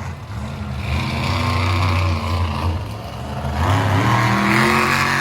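Monster truck engine running loud and revving, its pitch climbing about three and a half seconds in.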